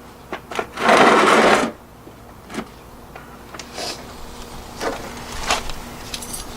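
Metal hand tools clinking and rattling during a brake job. About a second in there is a loud, rough rattling burst lasting about a second, followed by scattered clicks and light knocks.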